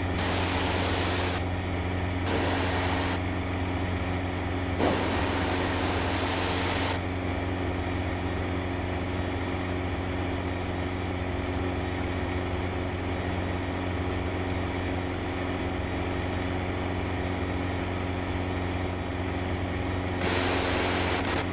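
Cessna 152's four-cylinder Lycoming engine and propeller droning steadily in cruise, heard inside the cabin, with a hiss that cuts in and out several times.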